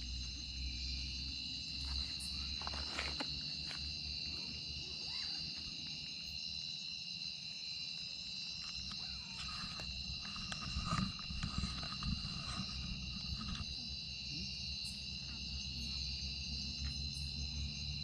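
Night insect chorus: crickets or katydids trilling steadily in several high pitched layers, with a low rumble underneath and a few louder knocks about eleven seconds in.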